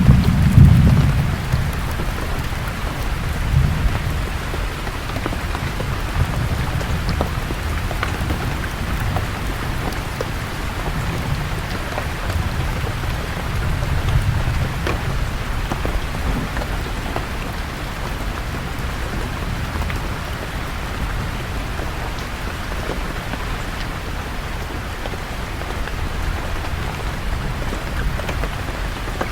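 Steady rain falling on forest leaves, with scattered drops ticking and thunder rumbling low. The thunder is loudest in the first second, then rolls again about four seconds in and around the middle before fading to the rain alone.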